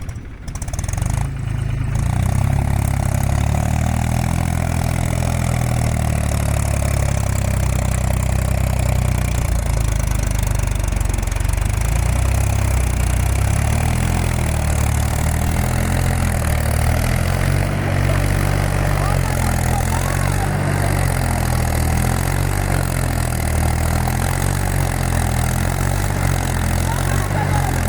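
Tractor diesel engine running steadily with a loud low rumble, picking up about a second or two in and then holding an even pace.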